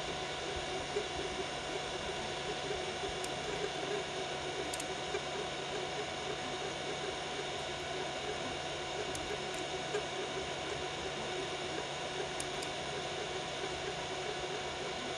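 Biqu BX 3D printer running a print at 120 mm/s: steady fan hiss with several steady motor tones and a few faint ticks.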